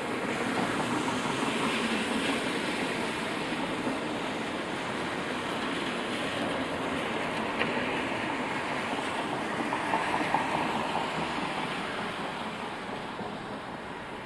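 A large vehicle passing slowly along a wet city street in the rain. Its noise swells over the first second or two and fades slowly toward the end, with a couple of faint clicks.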